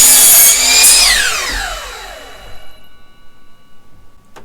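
Electric power saw running at full speed, switched off about a second in, its motor and blade winding down in a falling whine that fades over about a second and a half after a cut through cedar board. A single sharp click near the end.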